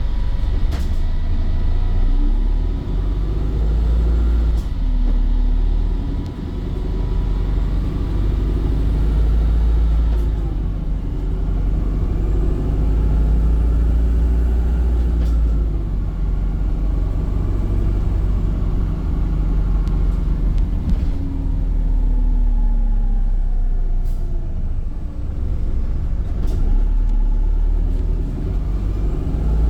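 Volvo B5 single-deck bus on the move, its drivetrain giving a low rumble with whines that rise and fall as it speeds up and slows. A few short, sharp sounds cut through now and then.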